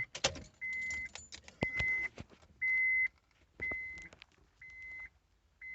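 A Honda Civic's dashboard warning chime beeping steadily at about one beep a second, with a few clicks at the start.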